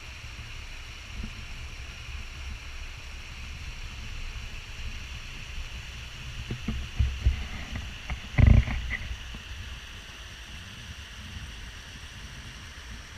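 Wind rumbling on an action camera's microphone over a steady hiss. A few dull knocks come about six and a half to seven and a half seconds in, and a louder thump comes at about eight and a half seconds.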